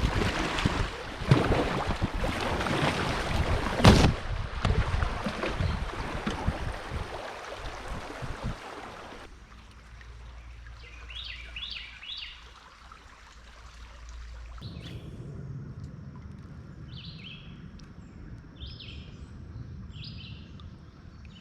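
Rushing river water with a few hard knocks, the loudest about four seconds in. Then, after an abrupt change to a quieter scene, a bird gives short chirps several times over a low background.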